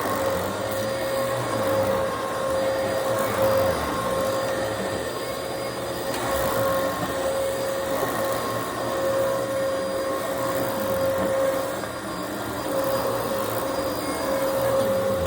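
Vacuum cleaner running steadily, its motor whine holding one pitch over a rush of airflow, the level swelling and easing gently every couple of seconds.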